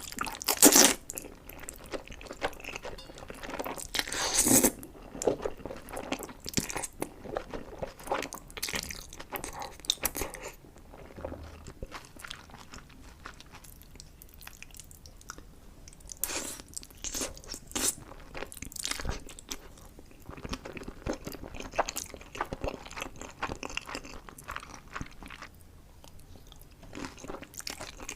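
Close-miked eating: crisp bites and crunchy chewing, in short crackling bursts. The loudest bites come in the first five seconds, it goes quieter for a while in the middle, then the crunching picks up again.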